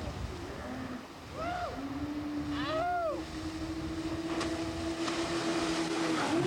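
Towing motorboat running, with wind buffeting the microphone and water noise. Two short rising-and-falling pitched sounds come through in the first half, and a steady hum holds for most of the rest.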